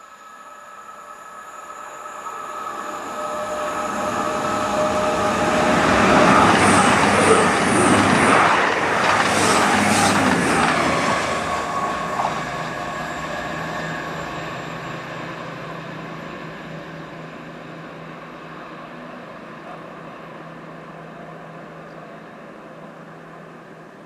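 Class 220 Voyager diesel multiple unit passing at speed. The noise builds, peaks with a quick run of wheel clicks over the rail joints, then fades slowly as a steady engine drone recedes.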